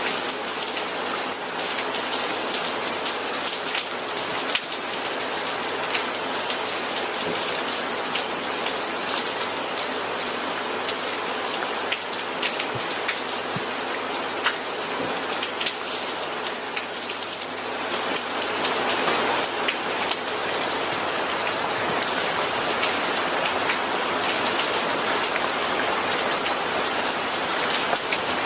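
Steady rain falling, with fine drops pattering on a surface; it grows a little louder about two-thirds of the way through.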